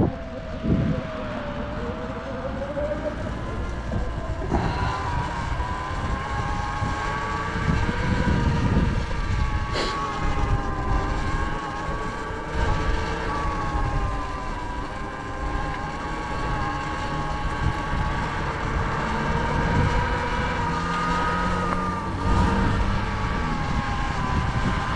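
Sur-Ron electric dirt bike being ridden, its motor whining in a few wavering tones that rise and fall with speed over a low rumble.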